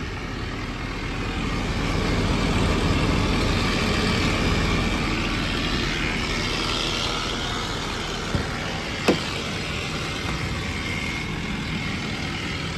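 Ford 6.7-litre Power Stroke V8 turbo-diesel idling steadily, with two short clicks about eight and nine seconds in.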